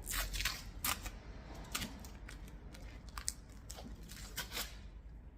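Masking tape being peeled off and plastic number plates handled: scattered short rustles and clicks.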